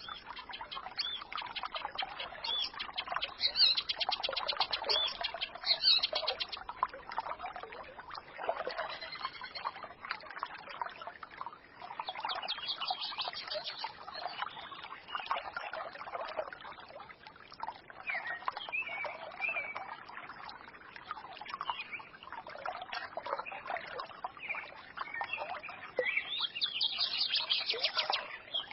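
Birds chirping and twittering over the murmur of a forest stream, with several bursts of fast trilling song.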